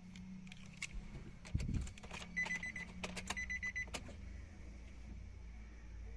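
Clicks and a thump inside a Nissan car being readied to start, with the dashboard warning chime beeping rapidly in two short runs, just before the engine is cranked.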